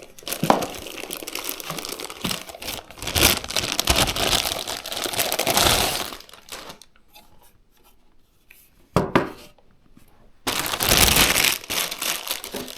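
Packaging being crinkled and torn by hand in noisy bursts, with a quieter pause of about four seconds partway through and a sharp knock just before the rustling resumes.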